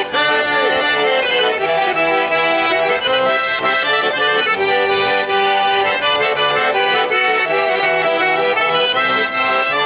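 Russian garmon (button accordion) playing a lively chastushka tune on its own between sung verses, with chords and melody going steadily.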